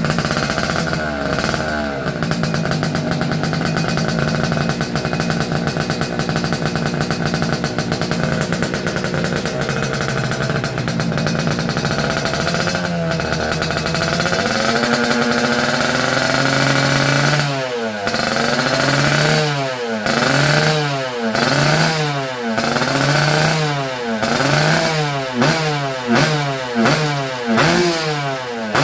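Yamaha F1ZR two-stroke single-cylinder engine running through a YYPang Type P aftermarket exhaust. It idles steadily with a couple of light revs, then from about two-thirds of the way through it is blipped over and over, roughly once a second, each rev rising and falling quickly.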